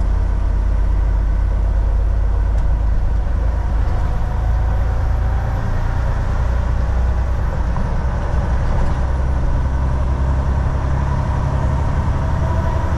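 Volvo VNL 760 semi truck driving at a steady pace: a continuous low engine drone with road and tyre noise, even throughout.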